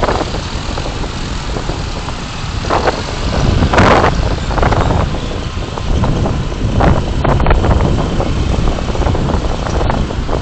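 Road and wind noise of a moving car picked up by a dashcam microphone: a steady low rumble with a few brief louder surges.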